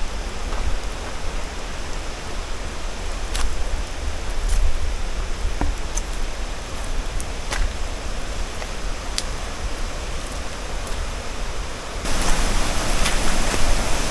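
Steady rush of river water with wind rumbling on the microphone and a few short sharp clicks. It grows suddenly louder and brighter about twelve seconds in.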